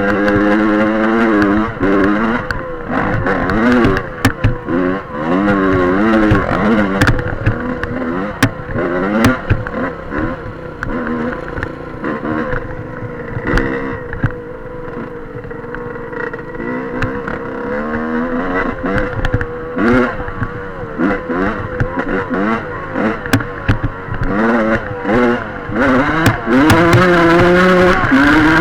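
Dirt bike engine being ridden hard, its pitch rising and falling over and over as the throttle is opened and closed through the gears, with scattered clatter and knocks. It holds a steadier, lower note in the middle stretch before revving hard again near the end.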